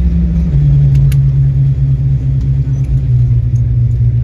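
Airliner cabin noise just after landing: a loud low rumble under a steady engine hum whose pitch slowly falls, with one sharp click about a second in.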